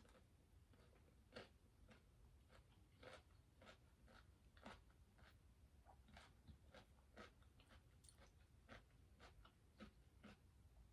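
Faint close-up chewing of crisp cucumber eaten as a palate cleanser, with soft, irregular crunches one or two times a second.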